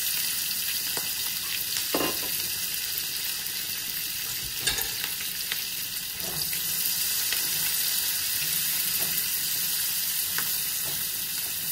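Diced onion sizzling steadily in hot oil in a frying pan, with a couple of light knocks. Near the end a silicone spatula stirs the onion through the oil.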